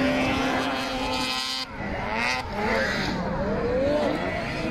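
Several snowmobile engines revving, their pitch repeatedly rising and falling as the machines race. One engine holds a steady note until the sound changes abruptly about one and a half seconds in.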